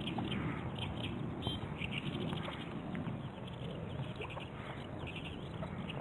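Birds singing in quick bursts of short repeated notes, over a steady low rumble.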